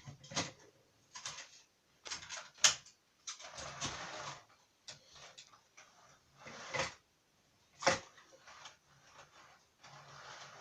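Plastic model railway coaches and locomotives being handled and lifted off the track: scattered sharp clicks and knocks, with a brief rustle of handling in between.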